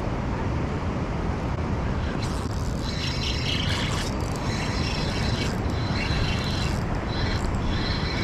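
Waterfall rushing steadily. From about two seconds in, a higher whirring comes and goes in several short stretches.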